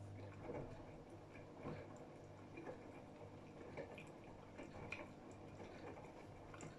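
AEG Öko-Lavamat front-loading washing machine in its wash phase: laundry and water slosh softly in the turning drum about once a second over a steady low hum.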